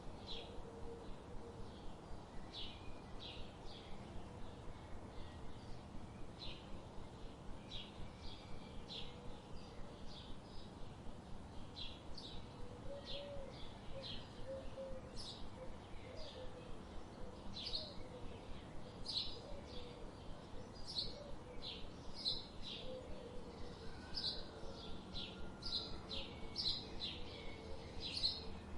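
Birds chirping: short, high chirps repeated about twice a second over a soft background hiss, with a fainter, lower warbling in the middle.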